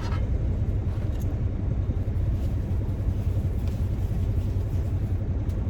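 Steady low rumble of an idling diesel truck heard inside the cab, with a few faint light clicks as a frying pan is wiped out.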